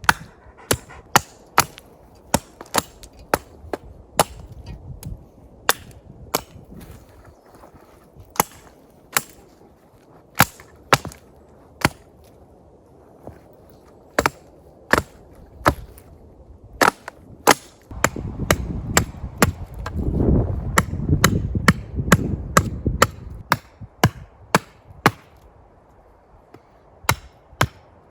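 Repeated sharp strikes, about one to two a second at an uneven pace, typical of camp work such as chopping or hammering. A stretch of louder low rustling and rumble comes about two-thirds of the way through.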